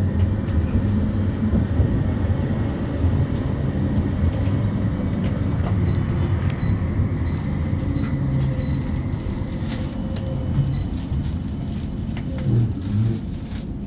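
West Midlands Metro CAF Urbos 3 tram running on its rails, heard from inside the passenger saloon: a steady low rumble with a faint motor whine, easing off near the end as the tram slows for a stop.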